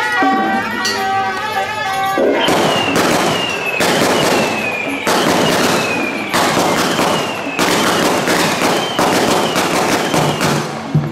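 A shrill suona (Chinese reed horn) melody for about two seconds, then long strings of firecrackers crackling densely. A falling whistle-like tone recurs about once a second over the crackle.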